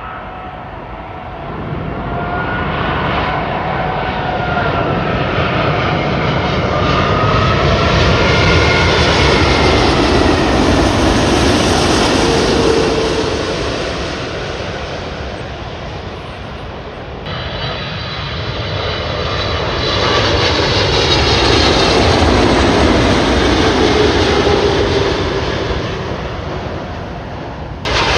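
Jet airliner passing overhead: its engine roar swells to a loud rumble with a whine that slides in pitch, then fades. About 17 seconds in, the sound cuts to a second airliner that swells and fades the same way.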